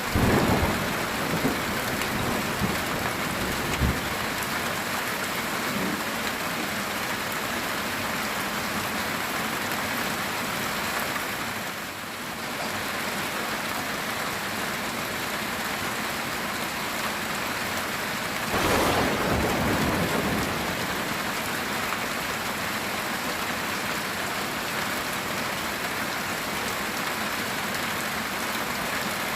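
Heavy rain falling steadily on a metal tin roof, with a rumble of thunder with a few sharp cracks at the start and a second thunder rumble about two-thirds through.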